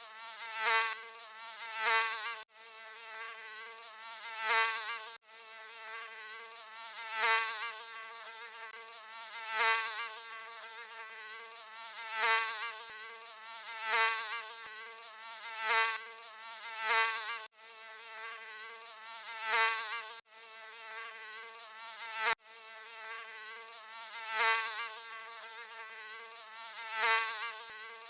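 Mosquito buzzing: a thin, high wingbeat whine with a slightly wavering pitch. It swells in loudness every two to three seconds and breaks off abruptly a few times before carrying on.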